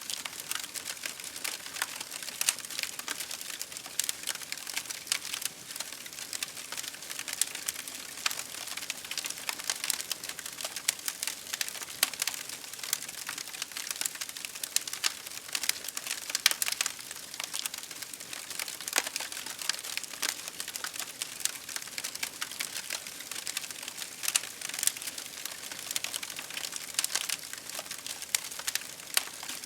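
Wood campfire crackling: dense, irregular pops and snaps over a steady hiss of rain.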